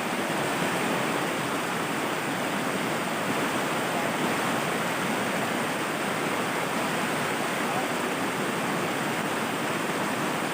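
Steady rush of water pouring over the rocks of stream rapids, an even unbroken noise.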